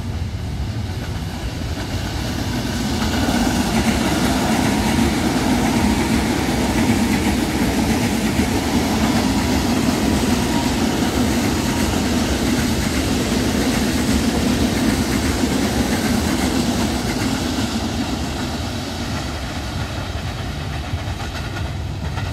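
KRL commuter electric multiple-unit train passing close by on its rails. The rush of wheels on track swells from about three seconds in, holds steady for the length of the train, and eases off near the end as it goes by.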